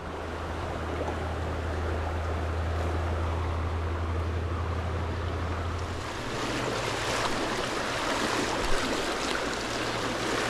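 Rushing stream water over riffles and pocket water, a steady wash of noise, with a low rumble for about the first six seconds that then drops away and one brief knock near the end.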